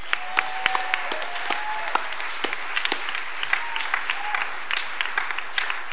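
Live studio audience applauding, a steady patter of many hands clapping, with a few faint calls above it.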